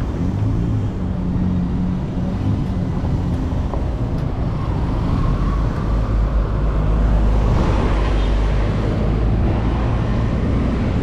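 Steady road noise while riding: passing traffic and wind rumbling on the microphone, heaviest about halfway through.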